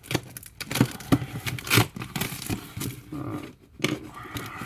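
A cardboard shipping box and its packing being handled and opened: irregular scrapes, knocks and crinkling.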